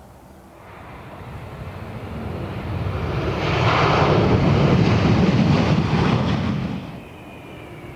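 Airliner passing close by on take-off or landing: its engine noise swells to a loud peak, then drops off sharply about seven seconds in.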